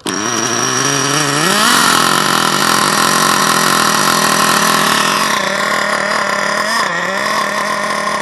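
HPI 4.1 nitro RC engine coming in abruptly and running fast, its pitch rising about a second in and then holding steady, with a brief dip near the end. The engine is cold and a little rich, and the owner suspects it is sucking air through a bad fuel tank seal.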